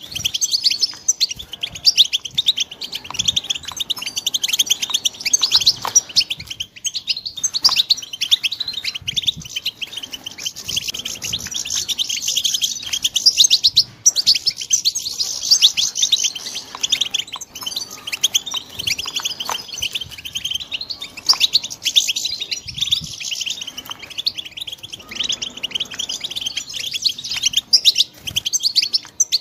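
Young European goldfinches twittering and chirping in a fast, unbroken run of high, quick notes.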